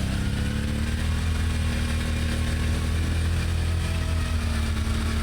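ATV engine running at a steady pace, its pitch rising slightly in the first second and then holding even.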